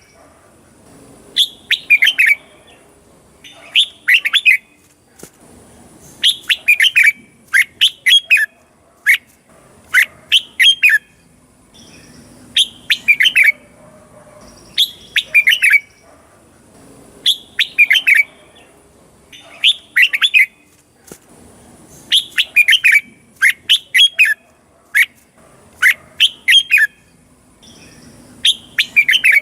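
Red-whiskered bulbul singing: short, loud phrases of several quick whistled notes, repeated about every one and a half to two seconds.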